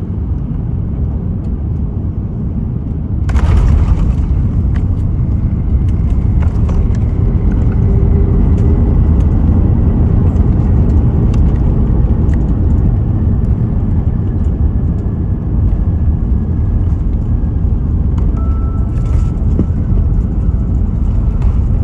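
Cabin rumble of an Airbus A350-900 with Rolls-Royce Trent XWB engines on its landing roll-out. The rumble jumps sharply about three seconds in, typical of the engines spooling up into reverse thrust after touchdown, and then stays loud and steady.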